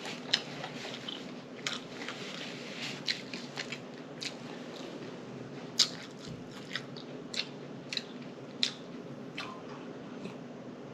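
A person chewing food close to the microphone, with irregular wet mouth clicks and lip smacks, a dozen or so, the loudest about six and nine seconds in.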